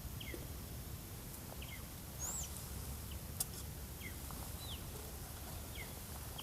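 A bird giving short, high, falling chirps about every second or so, with a few other higher calls, over a steady low rumble.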